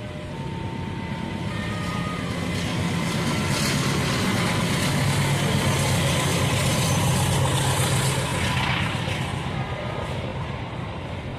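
Train passing by: a low rumble and rushing noise build up over a few seconds, peak mid-way, then fade.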